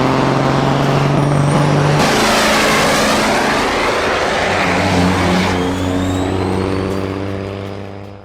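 Truck engines running hard in a truck race, loud and steady with pitch shifts. The sound changes abruptly about two seconds in and fades out near the end.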